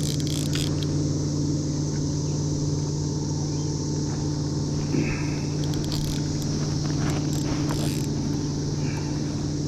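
A steady high-pitched chorus of periodical cicadas from the 2024 hatch, over a steady low hum, with a couple of faint knocks about five and eight seconds in.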